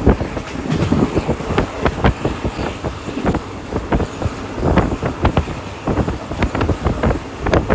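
Passenger train running along the track, heard from on board: a steady rumble with many irregular knocks, and wind buffeting the microphone.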